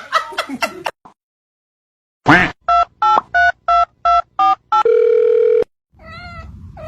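Telephone keypad tones: seven short two-note beeps in quick succession, then a longer steady tone, preceded by a brief loud sweep after a moment of silence. A cat starts meowing about six seconds in.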